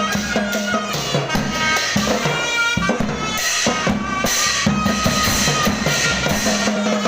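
Thai procession band playing: drums beating a steady, quick rhythm under a reedy wind instrument's melody and a held low drone.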